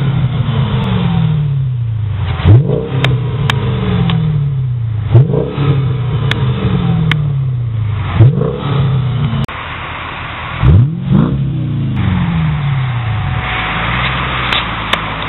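Mercedes-Benz E500's V8 with an aftermarket Eisenmann exhaust, free-revved in short blips from idle. Each rev climbs sharply and sinks back to idle over about two seconds. There are five blips, the last two close together.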